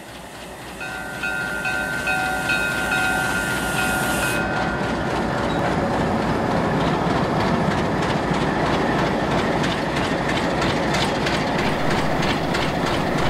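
Freight train rolling past, its wheels clicking over the rail joints; the sound builds over the first two seconds and then holds steady. Faint thin high tones sound during the first few seconds.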